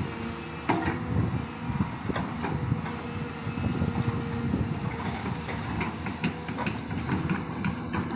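Hydraulic excavator working: the diesel engine runs steadily under a clatter of sharp metal clanks and knocks that come irregularly, several a second.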